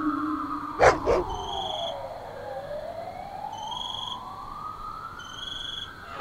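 Horror-film sound design: an eerie sliding tone that falls for about two seconds, then slowly rises again, over short high chirps repeating every couple of seconds. Two sharp knocks come close together about a second in.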